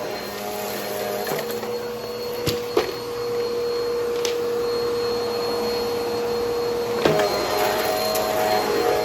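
Vacuum cleaner with a spinning brushroll running steadily, its motor giving a held hum. There are two sharp clicks a little before three seconds in, and the pitch steps up about seven seconds in.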